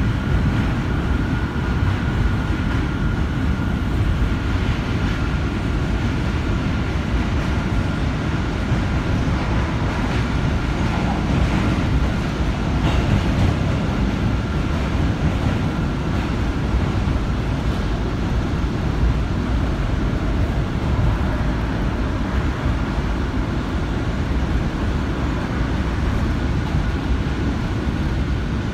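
New York City subway train running, heard from inside the car: a steady rumble of wheels on the rails with a thin steady whine above it, strongest in the first half.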